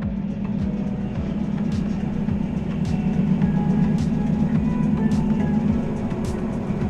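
Inside a moving Matterhorn Gotthard Railway narrow-gauge electric train: a steady low drone from the running gear and drive, with a light click about once a second from the wheels on the track.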